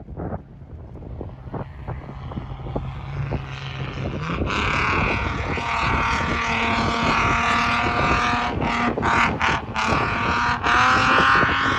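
Rally car's engine growing louder as it approaches across the sand. It rises in pitch about four seconds in, then holds at steady high revs. Gusts of wind buffet the microphone.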